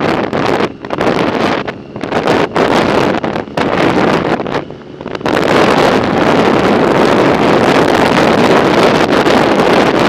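Wind buffeting the microphone of a moving bicycle, gusting on and off at first, then a steady loud rush from about five seconds in.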